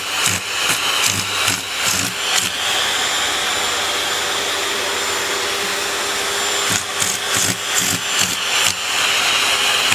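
Vacuum cleaner motor running steadily with a constant hum and hiss. Short knocks and bumps come in the first couple of seconds and again about seven seconds in.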